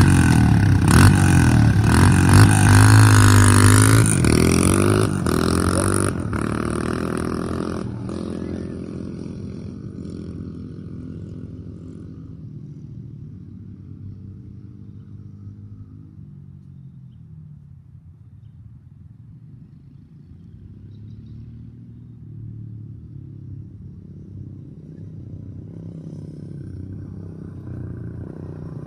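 Small motorbike engine revving hard close by, its pitch climbing and dropping through the gears, then fading as it rides away after about six seconds, and growing louder again near the end as it comes back.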